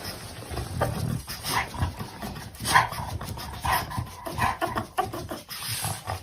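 A dog making a run of short, irregular sounds, a few a second.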